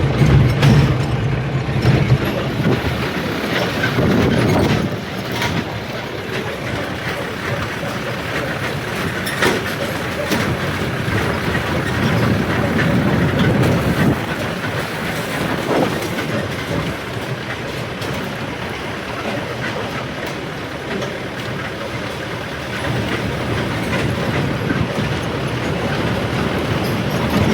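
Vehicle in motion: steady road and running noise with a continuous rattle, swelling and easing slightly in loudness.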